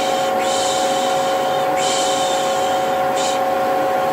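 Vacuum cleaner running with a steady hum, overlaid by three 'shh' shushes: two long ones about a second each and a short one near the end. This is the Turkish 'piş piş' lulling hiss.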